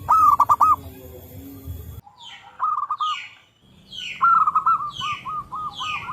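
Zebra doves (perkutut) cooing in quick strings of short arched notes: a burst of four at the start, a short group in the middle, and a longer run in the second half. From about two seconds in, another bird's falling calls repeat about twice a second over the cooing.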